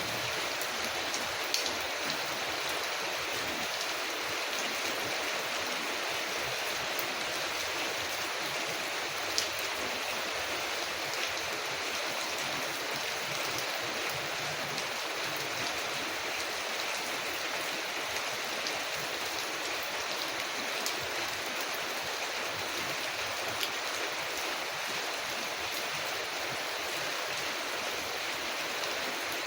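Steady rain falling on a window, with a few single sharp crackles from a wood fire.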